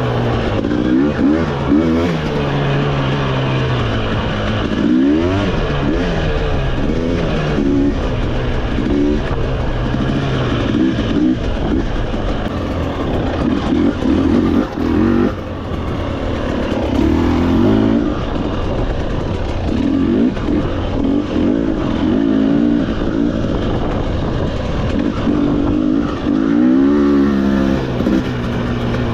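Off-road motorcycle engine revving up and down over and over as it is ridden along a dirt trail, the pitch climbing and dropping every second or two.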